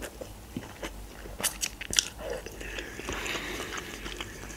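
A person chewing a mouthful of instant noodles close to the microphone, with wet mouth noises and a few sharp clicks about one and a half and two seconds in.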